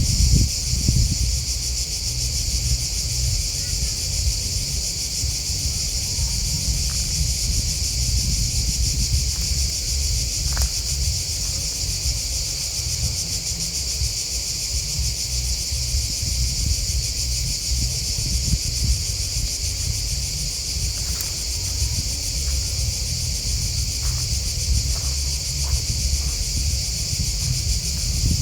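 Steady chorus of chirping crickets and grasshoppers, an unbroken high-pitched trill, over a constant low rumble.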